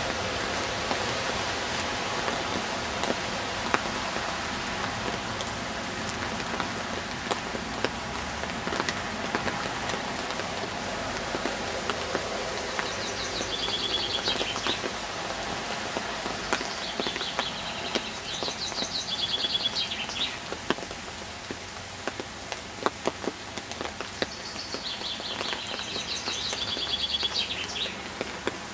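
Steady rain falling on a wet path and foliage, with scattered louder drops ticking close by. A songbird sings a short trilled phrase three times, from about halfway through to near the end.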